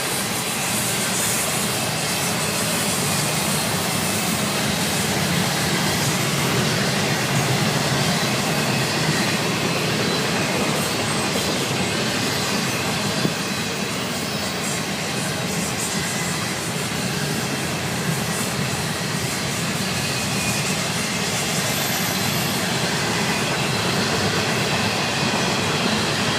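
Cars of a Florida East Coast Railway container train rolling past, a steady rush and rumble of steel wheels on the rails.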